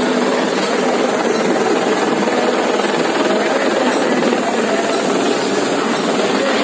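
Helicopter flying, a steady, unbroken rotor and engine noise.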